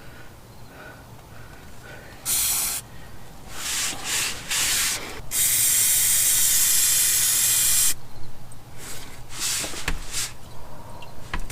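Aerosol spray cleaner sprayed in short bursts, then one long spray of two to three seconds, then a few more short bursts, cleaning oil off after the filter change.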